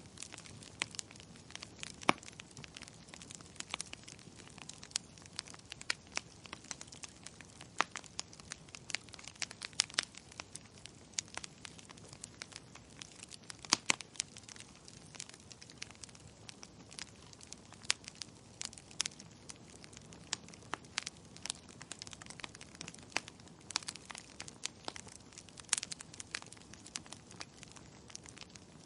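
Wood fire crackling in a fireplace: irregular sharp pops and snaps over a steady low hiss, with a few louder pops about two seconds in and again around fourteen seconds.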